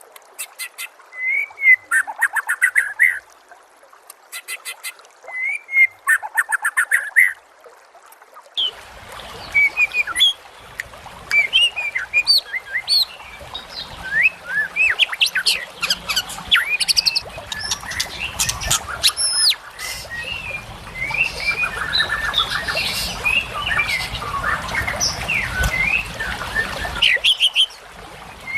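Songbird calls. First a single bird gives three short bursts of very rapid trilling mixed with chirps against a quiet background. From about eight seconds, a dense chorus of many small birds chirping and whistling over background noise takes over, then cuts off abruptly shortly before the end.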